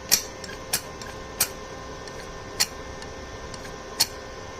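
Five sharp metal clicks, unevenly spaced, as a freshly welded steel exhaust bracket is test-fitted against an exhaust cutout, over a steady background hum.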